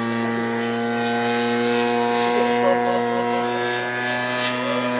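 Engine of a large RC airplane in flight, giving a steady drone at constant throttle.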